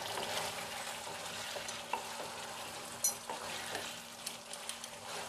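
Stuffed pointed gourds sizzling in ghee and gravy in a nonstick wok as a spatula stirs them, with a couple of light taps of the spatula on the pan.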